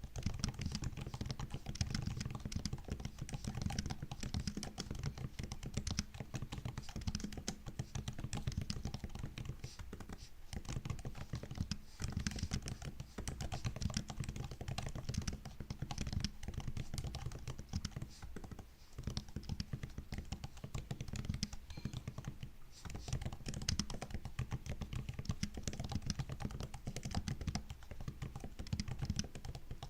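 Fast continuous typing on a MacBook's low-profile laptop keyboard: dense soft key clicks and taps with short pauses now and then.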